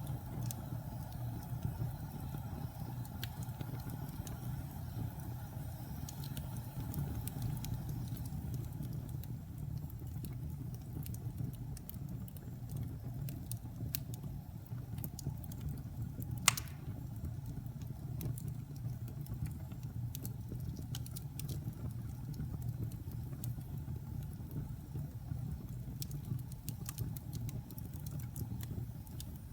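Wood fire burning in a fireplace: a steady low rumble of flames with scattered crackles, and one loud pop about halfway through.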